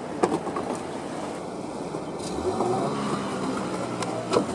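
Boat engine running, rising in pitch as it is throttled up about halfway through and then holding steady, with a few sharp knocks.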